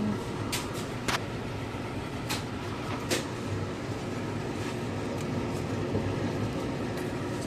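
Steady indoor machine hum of a convenience store, with four sharp clicks or taps in the first three seconds or so.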